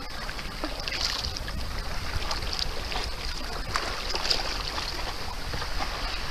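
Water splashing and hissing along the hull of a double sea kayak moving under sail, with irregular splashes, over steady wind noise on the microphone.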